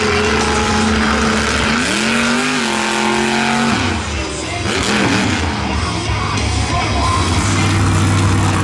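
Monster truck engine running, revving up about two seconds in and dropping back near four seconds, with music playing over the arena sound.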